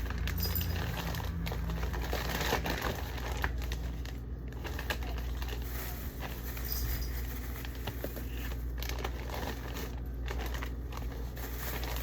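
Plastic bags crinkling and rustling in continuous handling, with small crackles and clicks, as bunches of grapes are split up and bagged.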